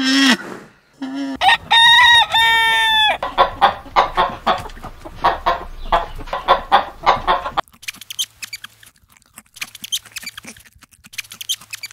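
A short animal call at the start, then a rooster crows loudly in two held parts about a second and a half in, followed by busy clucking from the chickens. After about seven and a half seconds this gives way to faint, quick crunching of a capybara chewing a grass leaf.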